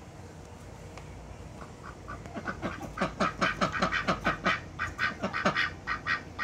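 A bird calling in a rapid run of short, loud calls, about four to five a second; they start faintly and become dense and loud about three seconds in.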